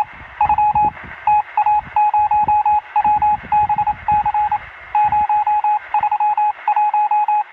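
Morse code: a single high beep tone keyed on and off in short and long bursts, over narrow-band radio static with crackles. It stops abruptly at the end.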